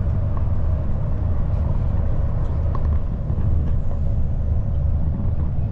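Motorcoach driving along, heard from inside the cabin: a steady low rumble of engine and road noise.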